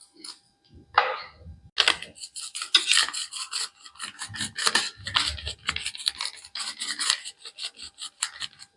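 A utensil stirring dry flattened rice (chira), scraping against the vessel in quick strokes. One scrape comes about a second in, then steady rapid scraping follows from about two seconds in.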